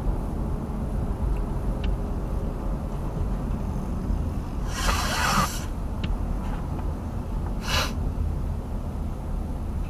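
Car driving, heard from inside the cabin: a steady low road and engine rumble. Twice, about five seconds and about eight seconds in, a person sniffs sharply, the first sniff longer than the second.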